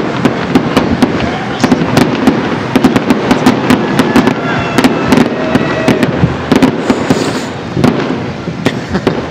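Fireworks display: a rapid, near-continuous run of sharp bangs and crackles, several a second, over a steady rumble of further explosions.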